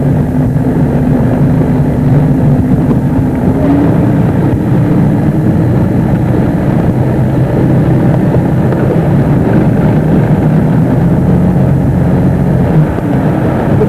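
Motorboat engine running steadily, with a low drone and rushing noise over it. Its pitch rises slightly about a third of the way in and shifts again near the end.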